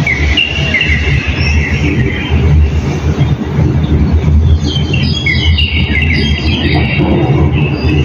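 Small birds chirping in short high notes, a few near the start and more busily from about halfway on, over a loud, steady low rumble.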